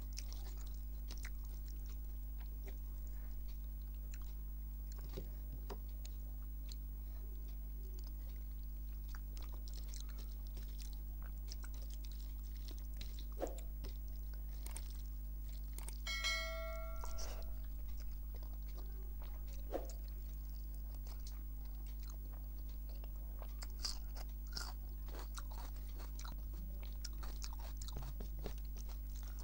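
Close-miked chewing of soft rice and dalma eaten by hand, with scattered small wet clicks from fingers mixing the rice, over a steady low hum. About sixteen seconds in, a brief ringing chime sounds for about a second.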